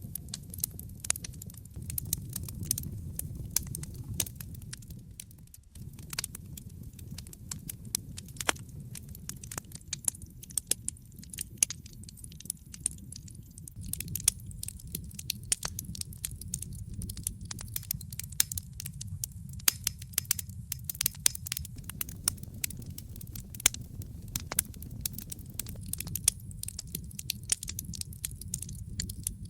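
Wood fire in a fireplace crackling, with frequent irregular sharp pops and snaps over a low steady rumble of the flames. The rumble dips briefly about five and a half seconds in.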